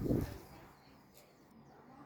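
A short, loud low rumble on the microphone in the first half second, typical of wind buffeting or handling the microphone, then a faint outdoor background.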